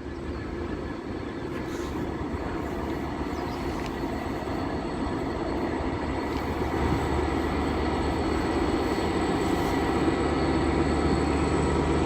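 Class 66 diesel-electric locomotive approaching, its two-stroke V12 EMD engine giving a steady drone that grows gradually louder.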